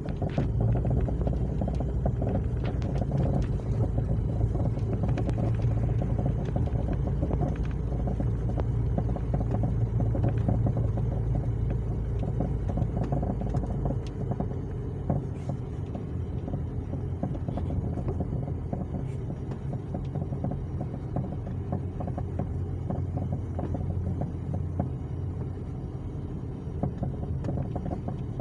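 Car suspension creaking and clicking over a steady low road rumble while driving, the squeaks of worn running gear. The short creaks and ticks come irregularly throughout and are busiest in the first half.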